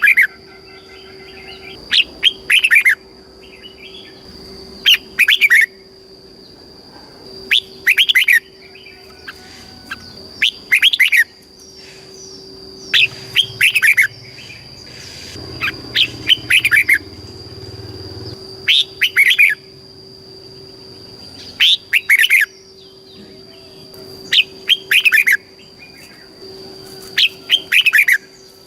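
Red-whiskered bulbul singing: short phrases of quick, down-slurred whistled notes, repeated every two to three seconds.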